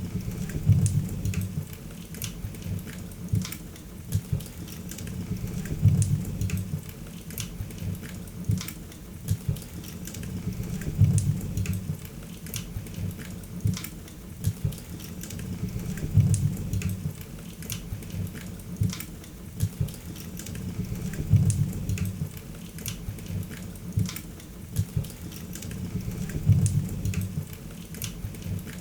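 Wood fire crackling, with frequent sharp pops and snaps over a low rumble of flames that swells about every five seconds.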